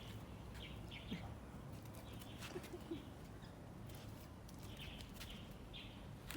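Faint, short, high chirps of small birds, repeating every second or so, over a low steady hum and scattered soft clicks.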